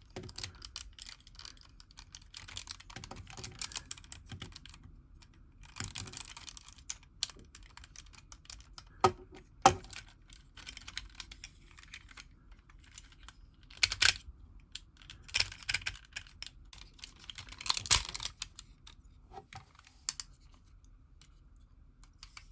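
Hard plastic parts of a Ganbaruger transforming robot toy being handled and folded: a run of small clicks and rattles, with a few louder sharp snaps as parts lock into place.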